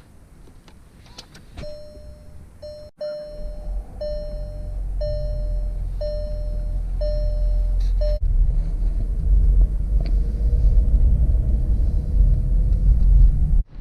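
A Volkswagen Alltrack's warning chime dinging about once a second for several seconds, then a low rumble of the car running that grows louder and cuts off suddenly near the end.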